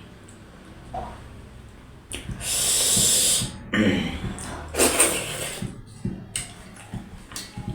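Close-miked mukbang eating noises: a loud, long noisy burst of mouth and breath sound about two seconds in, then shorter bursts and small mouth clicks.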